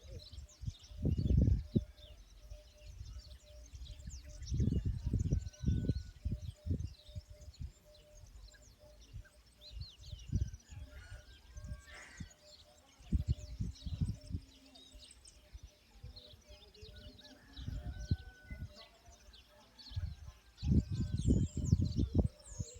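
Many small birds chirping and twittering outdoors, with loud low rumbles that come and go every few seconds over them.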